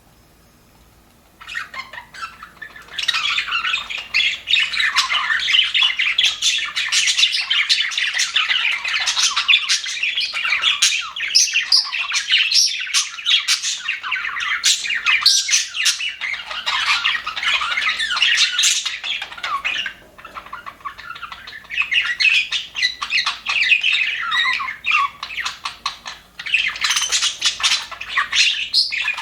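A flock of budgerigars chattering and warbling, many fast overlapping chirps and squawks, starting about a second and a half in, with short lulls about two-thirds of the way through and again near the end.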